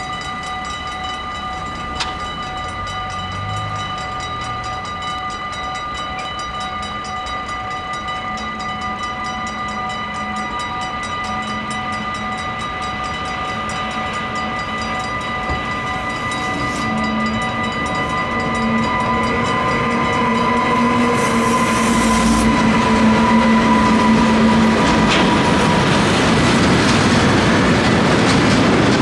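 Level-crossing warning bell ringing rapidly and steadily while a DB Schenker Class 189 electric locomotive approaches with a freight train. The train's rolling noise swells over the last ten seconds as tank wagons pass with clattering wheels.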